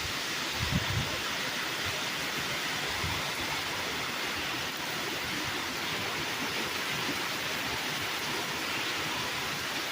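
Heavy rain falling steadily, a dense even hiss, with a brief low thump just under a second in.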